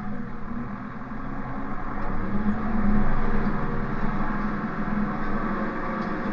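A motor vehicle's engine running steadily, its hum growing louder about two to three seconds in and then easing back.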